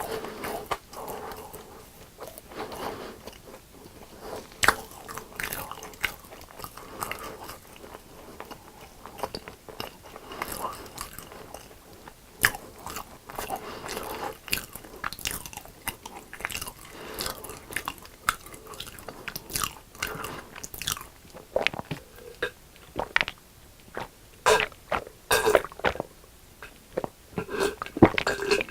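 Close-miked eating of crisp deep-fried food: bites and chewing with many irregular sharp crunches, coming thicker near the end.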